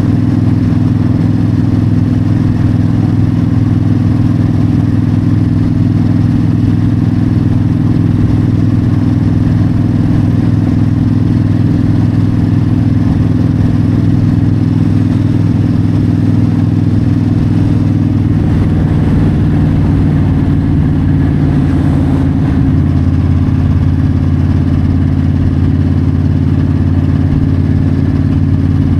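Yamaha V-Star 1300's V-twin engine running steadily while the motorcycle cruises on the highway. Its note shifts slightly about two-thirds of the way through.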